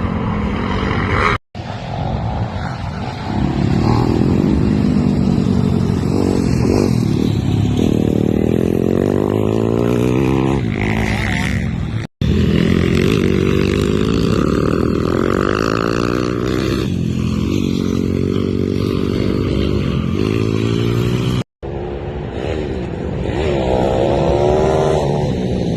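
Pit bike engine revving on a motocross track, its pitch rising and falling again and again as the rider opens and closes the throttle. The sound cuts out briefly three times.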